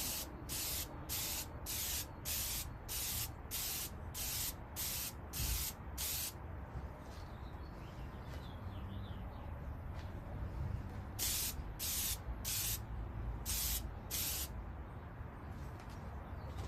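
Badger 250-4 single-action, siphon-fed air sprayer hissing in short spray bursts, about three a second for the first six seconds. After a pause come five slower bursts, with a low rumble underneath throughout.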